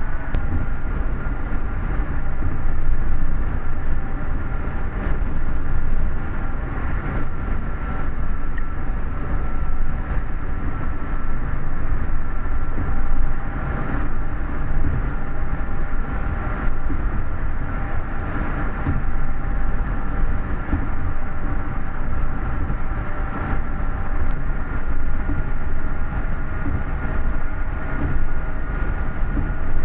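Steady road noise of a car driving at speed, heard from inside the cabin: a low rumble of tyres and engine with a faint steady whine over it.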